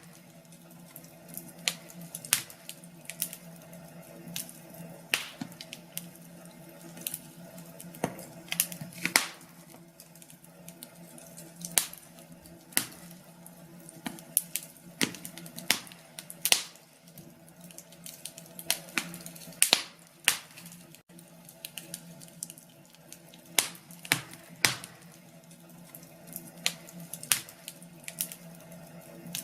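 Wood fire in a fireplace crackling, with irregular sharp pops and snaps throughout over a steady low hum.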